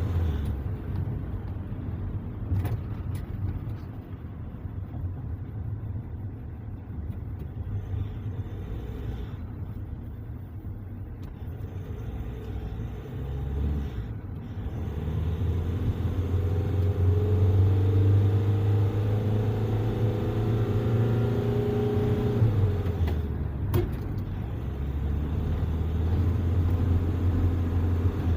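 Vehicle driving on a road, with a steady engine and road rumble that grows louder about halfway through as it picks up speed, and a faint rising tone. It is a road test after a differential rebuild (new bearings, side gears and pinion gear) meant to cure a hum at 80 km/h and above.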